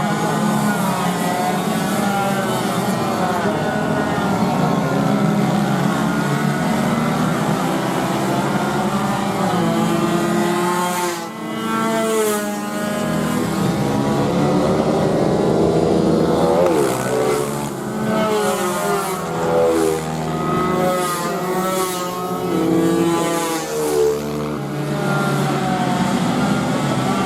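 Small racing motorcycles running on a track: several engines revving hard and rising and falling in pitch as they shift gears and pass one another, overlapping throughout.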